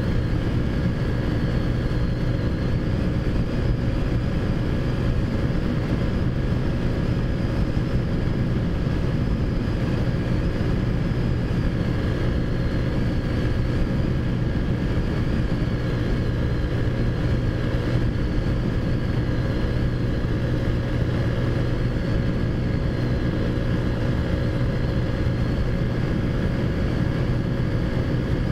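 Taotao Zummer minibike's modified 50cc four-stroke engine running at a steady, unchanging pitch while being ridden at a constant speed.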